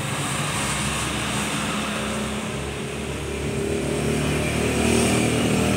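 Motor vehicle engine running close by, steady at first, then growing louder and a little higher in pitch in the second half.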